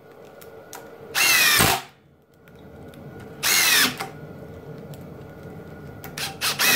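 Ryobi cordless impact driver driving screws into wood in quick succession: short bursts of about half a second each, roughly two seconds apart, with a third starting right at the end.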